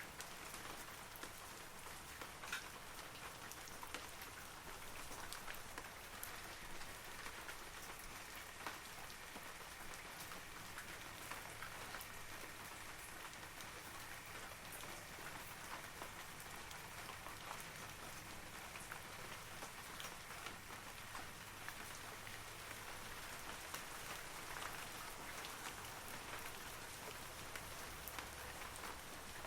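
Steady rain falling on forest trees, a continuous soft hiss dotted with many individual droplet taps.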